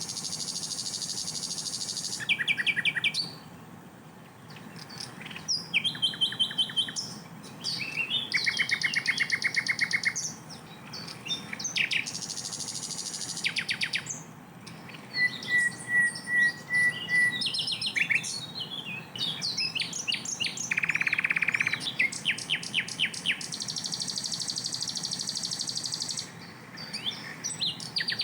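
Sikatan londo, a flycatcher, singing loud, dense song: bursts of fast trills, rattling runs of repeated notes and high buzzy phrases, one after another with brief pauses between them.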